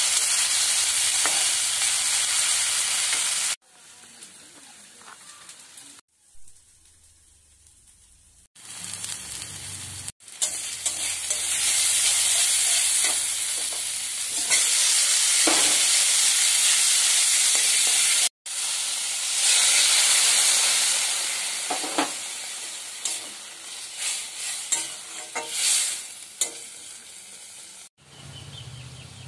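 Hot oil sizzling in a kadai as a spice paste fries, with spatula strokes scraping the pan now and then. The sizzle cuts out suddenly a few times, stays faint for several seconds in the first third, and dies down toward the end.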